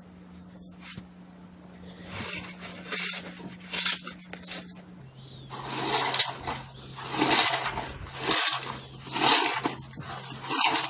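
Slime being squeezed and pressed, squishing and crackling in repeated bursts about once a second, louder from about halfway through, over a faint steady low hum.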